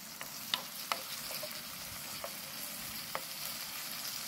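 Celtuce stems sizzling over low heat in chili oil with a splash of water in a pan. They are stir-fried with a wooden spatula that clicks lightly against the pan about six times.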